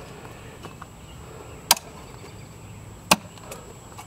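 Two sharp strikes of a hand tool into the ground, about a second and a half apart, over a low steady background hum.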